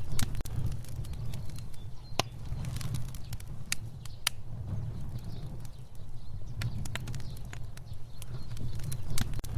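A fire crackling, with irregular sharp pops and snaps over a steady low rumble of flame.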